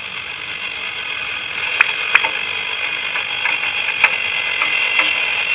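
Steady hiss with scattered sharp crackles, getting a little louder about a second and a half in.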